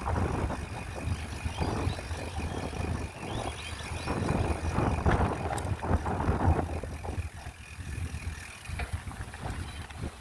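Bicycle ride with wind buffeting the microphone: an uneven, gusting rumble that rises and falls irregularly.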